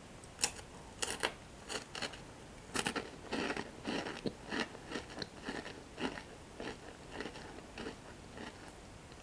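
Toasted breadsticks with cocoa cream being bitten and chewed close to the microphone. A few sharp crisp crunches come in the first three seconds, then a steady run of chewing crunches at a little under two a second, fading near the end.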